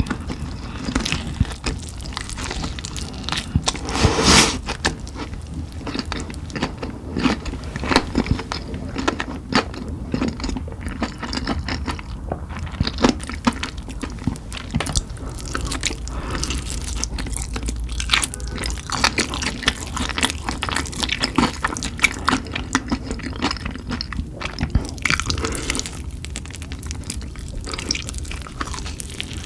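Close-miked chewing of spicy chicken: a steady run of wet smacking and crackling mouth sounds, with one louder bite about four seconds in.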